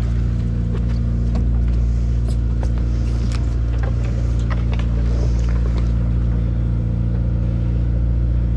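A sportfishing boat's engine running steadily with a low, even drone, with scattered short clicks and knocks over it.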